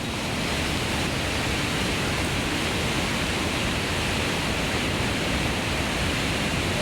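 Steady, loud rushing of water, an even hiss that holds without a break.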